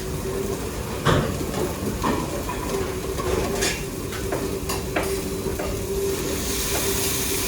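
Restaurant kitchen cooking sounds: food sizzling in a pan and pans and utensils knocking a handful of times over a steady humming din. A hiss swells near the end.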